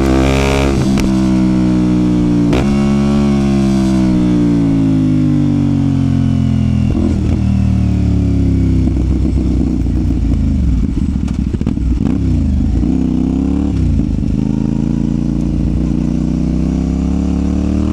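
CFMOTO 450SR parallel-twin engine on the move: it revs up through a couple of quick upshifts in the first few seconds, then falls in pitch as the bike slows. It runs low and uneven for a few seconds and picks up revs again near the end.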